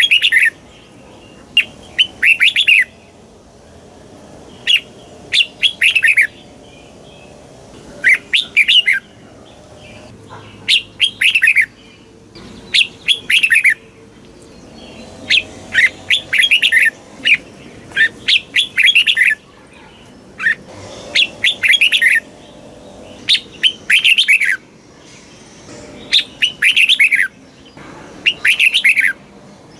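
Red-whiskered bulbul singing: short phrases of quick, falling whistled notes, repeated every second or two.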